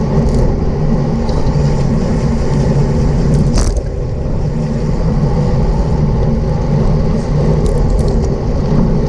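Steady wind rumble on the microphone of a camera riding along with a road bike racing at speed, mixed with tyre noise on the road. A single sharp click about three and a half seconds in.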